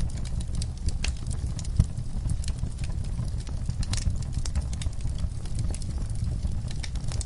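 Wood fire in a fireplace crackling, with irregular sharp pops and snaps over a low, steady rumble of the flames; one louder pop about two seconds in.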